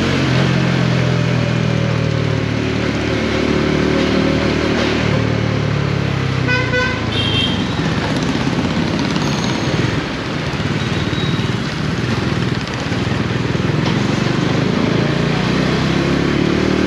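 Bajaj Dominar 400's single-cylinder engine running under way, its pitch falling a few seconds in as the bike slows. Wind and road noise then dominate, with a short horn toot about seven seconds in, and the engine note climbs again near the end.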